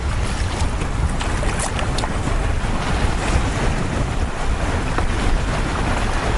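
Strong wind buffeting the microphone over the rush and slap of choppy waves against a canoe, a loud, steady rushing noise with a heavy low rumble.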